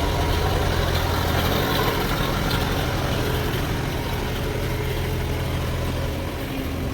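Sawmill band saw running with a steady, low engine-like drone, easing slightly near the end.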